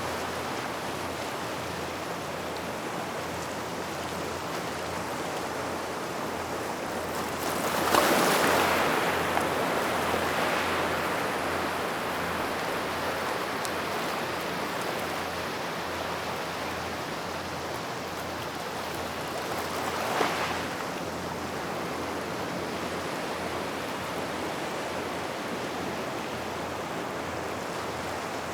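Small waves washing up and pulling back over a gravel shoreline near rocks, with a steady rush of water. A larger wave breaks about eight seconds in and fades over a few seconds, and a smaller one breaks about twenty seconds in.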